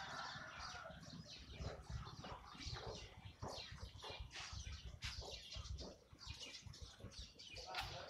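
Birds chirping in rapid short calls that sweep down in pitch, several a second, over a low rumble.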